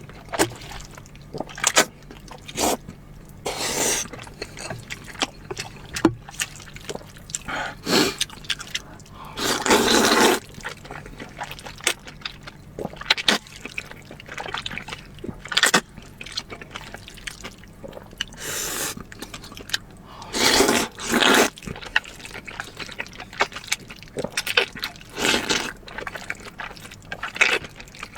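Close-miked eating sounds: wet chewing and mouth smacks in quick, irregular clicks, with a few longer slurps of about a second.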